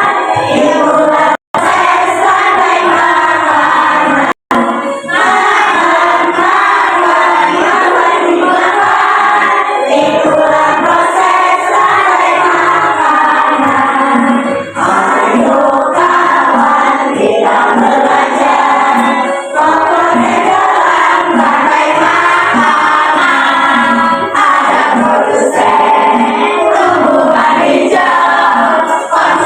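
A class of schoolchildren singing a song together in unison, loud. The sound cuts out for an instant twice in the first few seconds.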